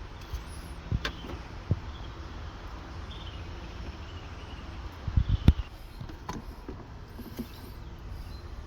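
Light clicks and a short cluster of knocks, loudest about five seconds in, from parts being handled in a car's engine bay during a fluid check, over a steady low background hum.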